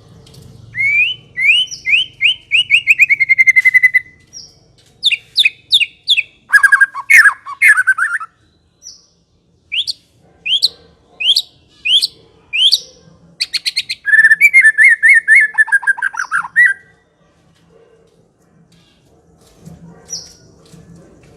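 White-rumped shama singing in loud whistled phrases. It opens with a rapid run of repeated notes falling slightly in pitch, then gives a string of sharp rising whistles and a fast chattering run, and falls quiet about two-thirds of the way through, apart from a few faint notes near the end.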